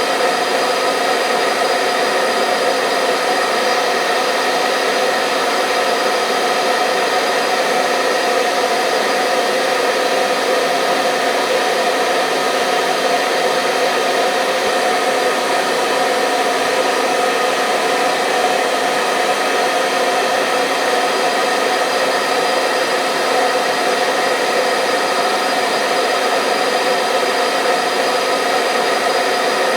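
Hair dryer running continuously, a steady whirring hiss with a constant motor hum, used as soothing white noise to help a baby sleep.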